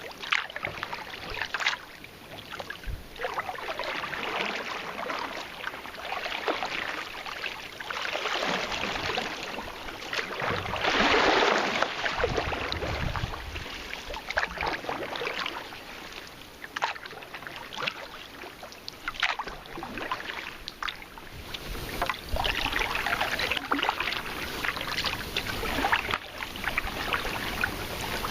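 Kayak paddle blades dipping and splashing in the water at an irregular stroke rhythm, with a louder stretch of splashing about eleven seconds in.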